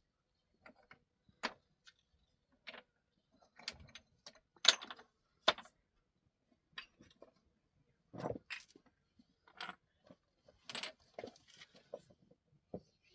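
A string of about a dozen irregular clinks and knocks of hard objects being handled, the loudest one a little under five seconds in.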